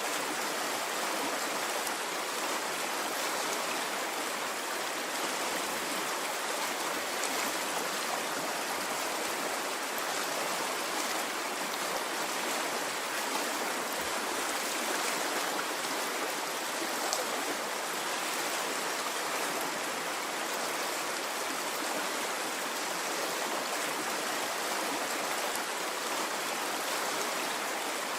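Water of a stream flowing steadily: an even, unbroken hiss of running water, mostly high and mid pitched with little low rumble and no rise and fall of waves.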